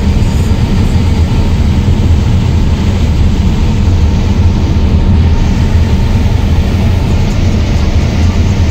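Heavy farm machinery working during corn harvest: the diesel engines of a combine harvester or tractor running steadily under load, a loud continuous low rumble.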